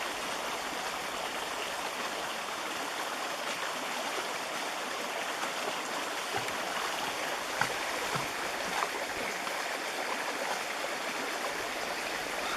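Mountain stream running over rocks: a steady rush of flowing water, with a few small splashes or plops about two-thirds of the way through.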